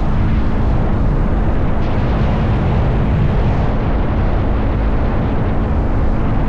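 Motorcycle riding at a steady cruising speed: a steady engine note under heavy wind rush buffeting the microphone.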